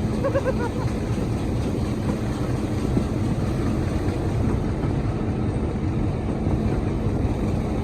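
Heritage diesel locomotive running under power, heard as a steady, loud low rumble.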